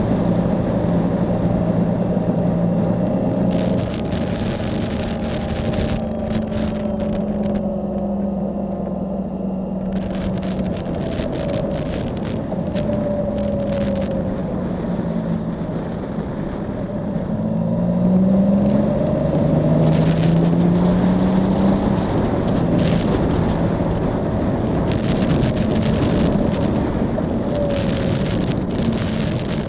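Motorcycle engine pulling along at road speed, its pitch gliding up and down with the throttle and climbing about two-thirds of the way through, over a rush of wind and crackling buffets on the microphone.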